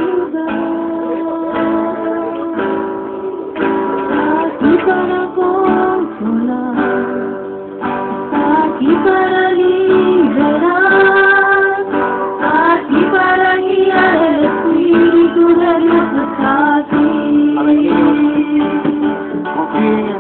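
A song: a voice singing over a strummed acoustic guitar.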